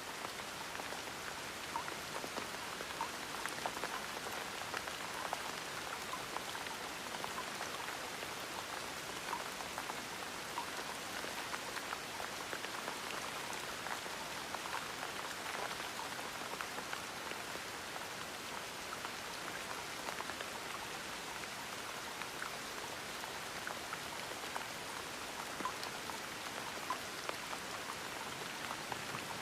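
Gentle rain falling steadily, a soft even hiss with many small drops pattering.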